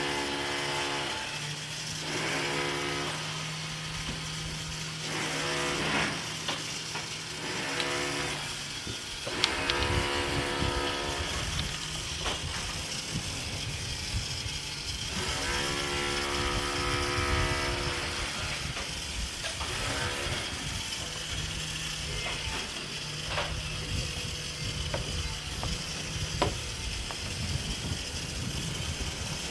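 Repeated bursts of mechanical ratcheting or whirring, each lasting a second or two, over a steady low hum that stops about eight seconds in and comes back near the two-thirds mark.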